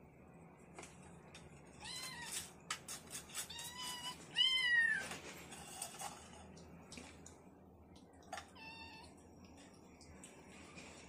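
A cat meowing four times, the loudest call about four and a half seconds in with a falling end, with a few light clicks or taps among the early calls.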